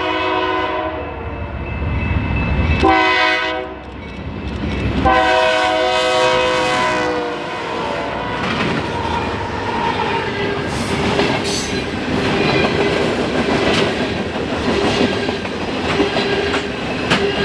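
BNSF freight train's Nathan K3LA air horn sounding the end of one blast, a short blast about three seconds in and a longer blast about five seconds in, then the train passing at track speed with steady wheel rumble and clickety-clack over the rail joints.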